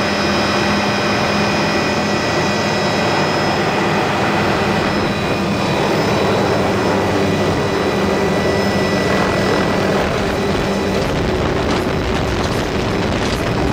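A helicopter with its doors off running steadily: engine and rotor noise with a few steady tones, mixed with wind rushing through the open cabin.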